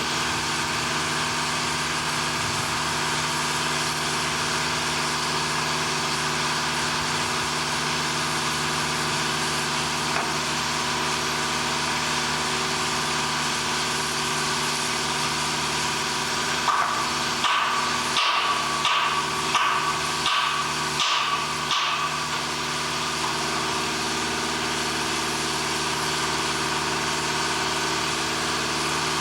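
An engine running steadily on heavy machinery. A bit over halfway through comes a quick run of about eight ringing metal clangs, roughly one every two-thirds of a second, like hammering on steel.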